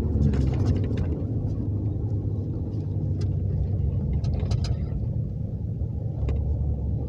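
Steady low road and engine rumble inside the cabin of a moving police car, with a few faint clicks around the middle and near the end.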